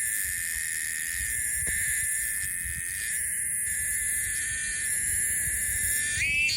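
An animal's continuous high-pitched shrill call, held on one steady pitch and stepping up briefly near the end.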